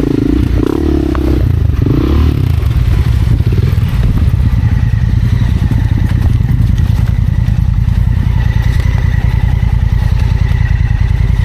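Off-road motorcycle engine revving up and down a few times in the first couple of seconds, then running steadily.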